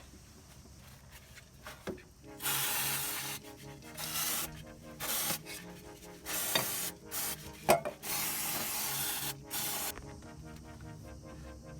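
Repeated hand rubbing strokes of an abrasive on engine parts, about seven passes of uneven length, with a sharp click about two thirds of the way through.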